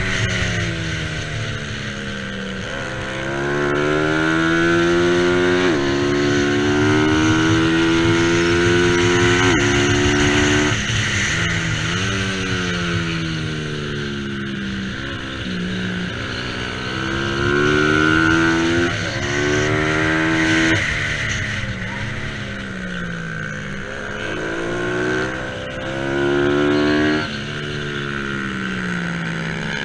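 Bajaj Pulsar 200 NS single-cylinder race engine at full throttle. Its pitch climbs and drops sharply at each upshift, then falls away under braking before it winds up again.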